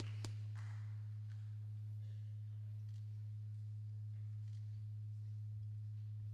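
Steady low electrical hum, typical of a sound system's mains hum, with a few faint knocks and shuffles around it and a click just after the start.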